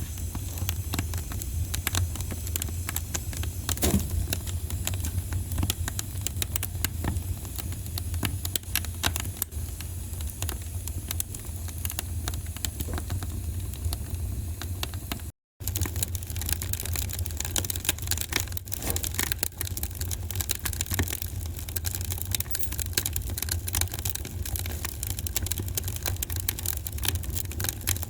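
Wood fire in a fireplace crackling, with many small irregular pops over a steady low rumble. The sound cuts out for a split second about halfway through.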